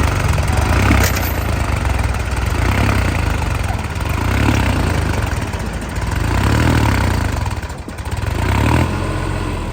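Tractor engine running, its level swelling and easing several times as the revs rise and fall, with a brief dip near the end.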